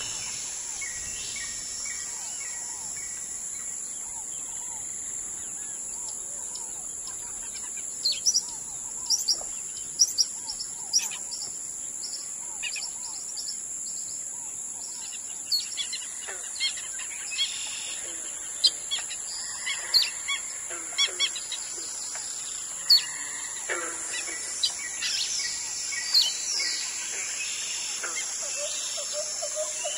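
Wild birds calling in riverside bush: many short, sharp chirps and calls come in bunches from several seconds in to near the end, over a steady high-pitched hiss.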